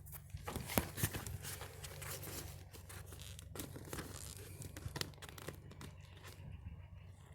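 A plastic and vinyl toy airplane being handled: irregular rustling and crinkling with light clicks and taps, one sharper click about a second in, over a steady low hum.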